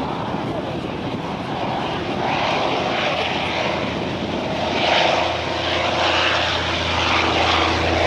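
Vought F4U Corsair's Pratt & Whitney R-2800 radial piston engine running in flight, a steady drone with a rushing noise that grows louder about five seconds in, where a low engine hum sets in.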